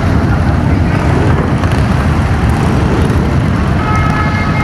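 Motorcycle engines running in a loud, steady, low rumble. Near the end a few steady tones sound together for about a second.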